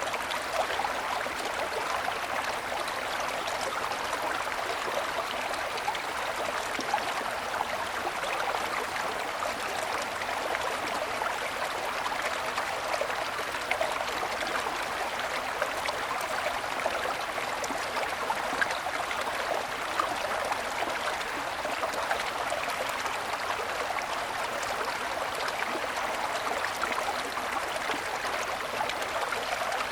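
A small mountain stream flowing over snow-covered stones: a steady babbling and trickling, with small splashes.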